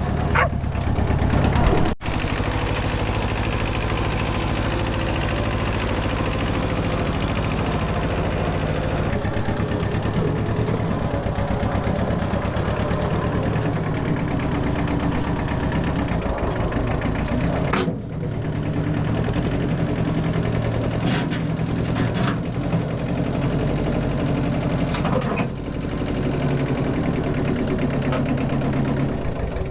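A heavy engine running steadily at low revs, with a deep rumble.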